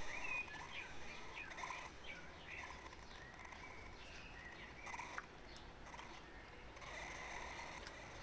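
Faint chirping of small birds: short twittering notes, coming and going, over a steady background hiss.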